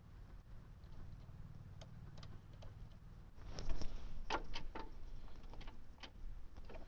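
Scattered light clicks and knocks, several in quick succession about halfway through, over a faint low hum; no engine running.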